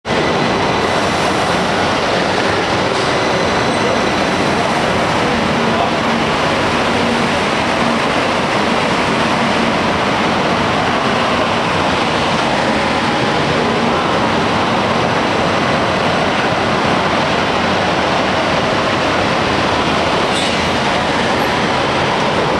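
High-speed electric train rolling along a station platform: a loud, steady rushing noise that holds constant throughout.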